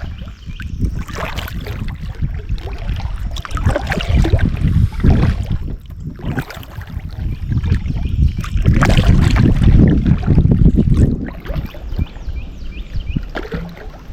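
Kayak paddle strokes in creek water, with wind gusting on the microphone as a heavy, uneven rumble that swells twice, about four seconds in and again from about eight to eleven seconds.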